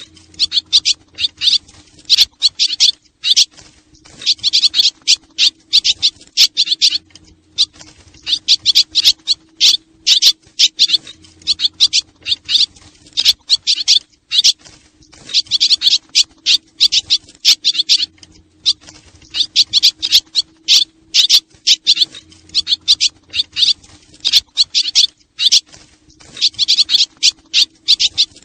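Swallows twittering: dense, rapid high chirps in bursts of two to three seconds, repeating with short gaps. A faint steady low hum runs underneath.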